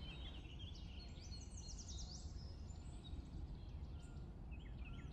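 Small birds chirping in quick repeated notes, on and off, over faint steady outdoor background noise.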